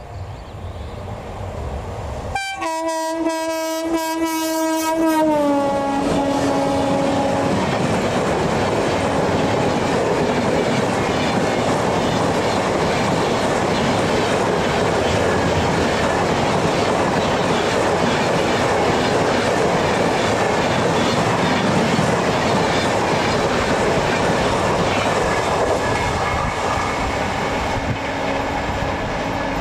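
Express train passing at speed. Its horn sounds for about five seconds, dropping in pitch as the locomotive goes by, and is followed by a steady rush of coaches with wheels clattering over the rail joints.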